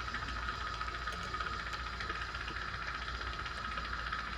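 Jeweler's gas torch flame burning steadily, a constant hiss over a low rumble, as the boric acid and alcohol coating on a gold chain is burned off before soldering.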